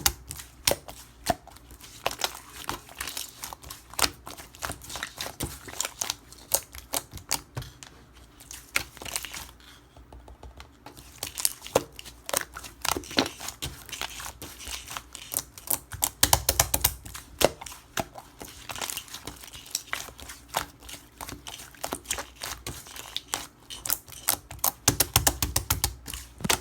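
Slime being squished and pressed by hand, giving quick, irregular runs of small popping and crackling clicks with a few soft low thumps.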